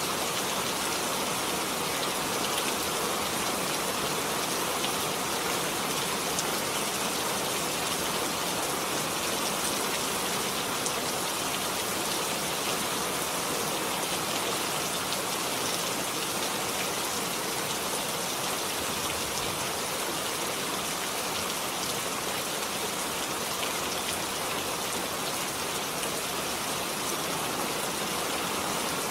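Steady rain falling, an even hiss of rainfall with many small drop patters on a surface.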